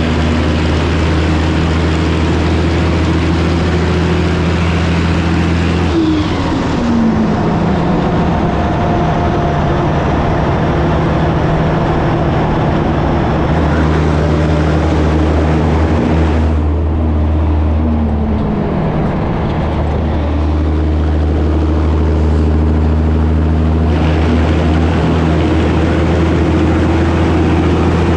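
Diesel engine of a 1984 Peterbilt 362 cabover truck running under way, heard steadily. Its pitch drops sharply about six seconds in and again about eighteen seconds in, as with gear changes, then holds steady again.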